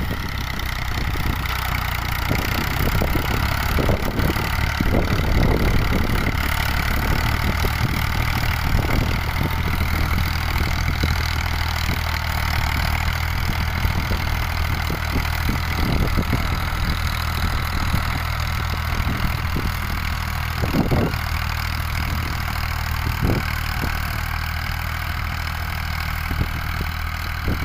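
Tractor engine running steadily at a low, even speed, with a few short louder sounds over its drone.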